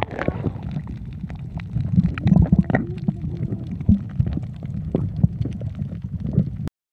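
Water heard through a camera held underwater while snorkelling: a low, muffled rumble with scattered clicks and pops, cutting off suddenly near the end.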